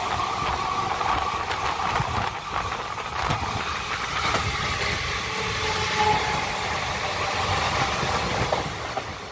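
Running noise of a moving train heard from inside a carriage at an open window: a steady rumble and rattle with irregular clacks of the wheels on the track. It fades out near the end.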